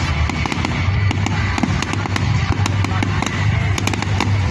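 Fireworks display going off in rapid succession: dense crackling with many sharp cracks over a constant low rumble of bursts, with music underneath.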